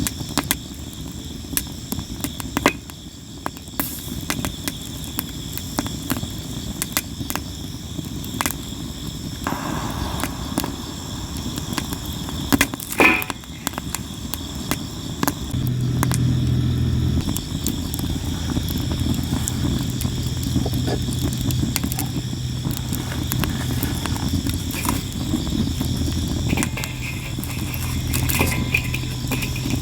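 Campfire of sawara (Japanese cypress) wood crackling and popping, with frequent sharp pops, over a steady high insect chorus. A low steady hum joins about halfway through.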